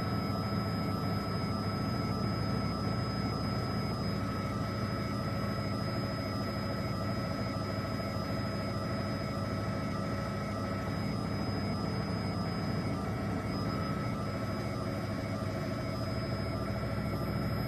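Steady helicopter engine and rotor drone with a constant high whine, unchanging throughout.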